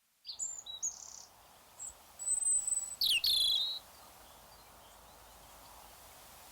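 Bird calls: a few short high chirps, a held high whistle, then a quick warbling trill, all within the first four seconds, followed by a faint steady hiss.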